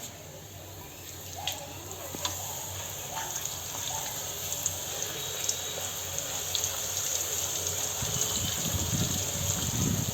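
Cooking oil heating in a pan on a gas stove for deep-frying puris: a steady sizzling hiss with scattered small crackles, slowly growing louder, with a heavier bubbling from about eight seconds in.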